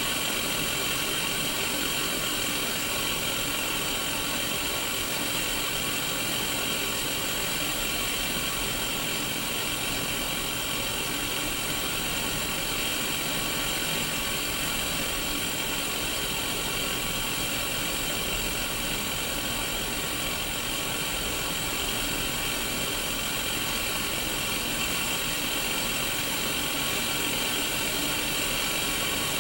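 Static from a Sony Mega Watchman black-and-white mini CRT TV on an untuned channel: a steady, even hiss with faint steady tones running through it, brightest in the upper middle.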